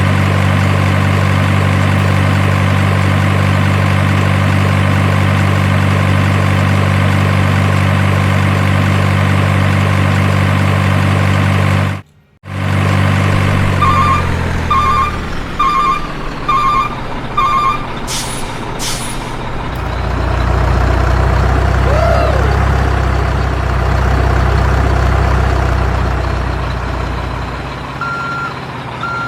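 Heavy truck sounds. A diesel engine idles steadily with a low hum, then cuts out briefly. A reversing alarm then beeps five times, air brakes release with a short hiss, and the engine rumbles low before the reversing beeps start again near the end.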